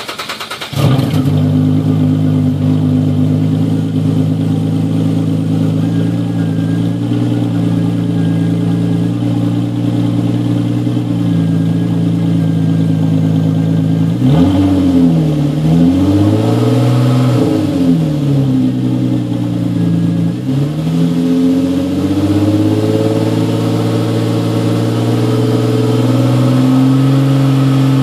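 2003 Nissan Maxima's 3.5-litre VQ V6 catching just under a second in and settling into a steady idle. About halfway through it is revved up and down several times, then idles again. It runs through a stock muffler with its insides gone, so the exhaust is open and loud.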